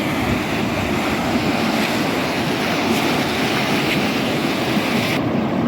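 Floodwater rushing in a steady, loud torrent. The higher hiss in it cuts off abruptly near the end.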